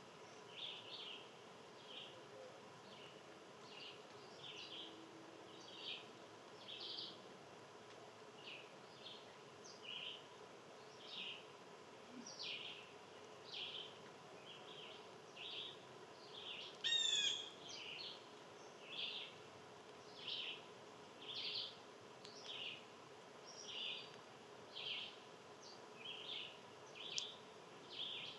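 Small birds chirping: short, high chirps repeating roughly once a second, with one louder, sharper call about two-thirds of the way through.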